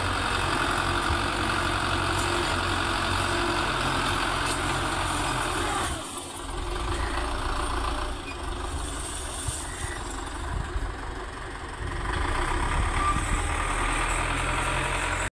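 Belarus 510 tractor's diesel engine running steadily, dropping in loudness about six seconds in and rising again near twelve seconds, then cutting off abruptly just before the end.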